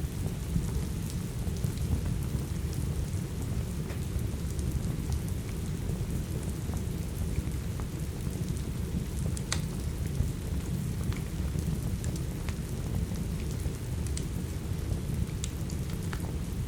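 Steady heavy rain, a dense low rumbling hiss, with scattered sharp pops and crackles from a wood fire burning in a fireplace.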